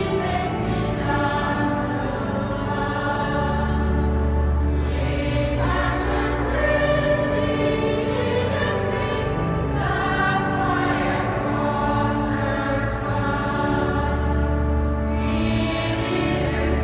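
A choir singing, with steady low notes held underneath it at several points.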